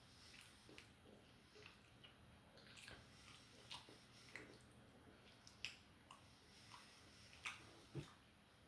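Faint close-miked chewing and mouth sounds from a person eating, with scattered short wet clicks every second or so.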